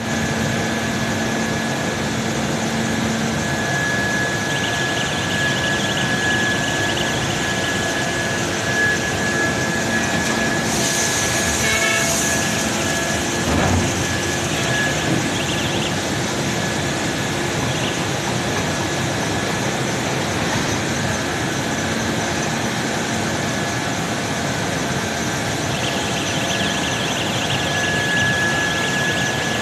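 Steady mechanical running noise with a thin, constant high whine.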